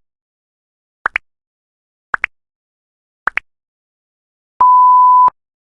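Electronic countdown beeps: a short double chirp about once a second, three times, then one long steady beep near the end.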